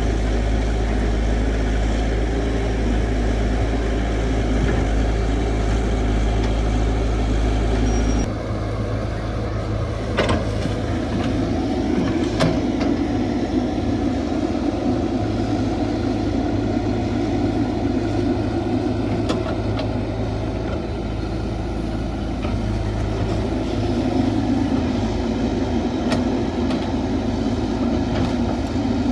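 Caterpillar 312 hydraulic excavator's diesel engine running steadily while digging, with a few sharp knocks. The engine sound changes abruptly about eight seconds in.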